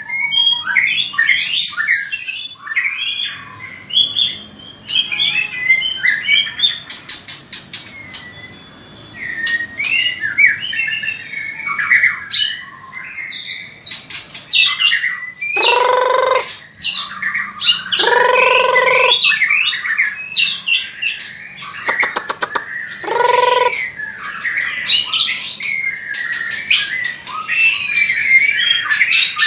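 White-rumped shama singing a long, varied song of whistled phrases, quick trills and rapid clicking runs. Around the middle, three lower, harsh drawn-out calls, each about a second long, break in.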